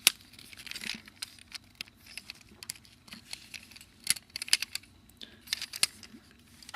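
Plastic joints and parts of a Human Alliance Sandstorm Transformers figure clicking and rattling as it is twisted and folded into its other mode. Scattered sharp clicks, with a loud one at the start and small clusters about four and five and a half seconds in.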